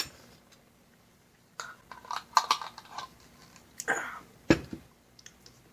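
A person tasting sour marmalade: scattered lip-smacking and mouth clicks, a short wordless vocal reaction about four seconds in, and a sharp click just after.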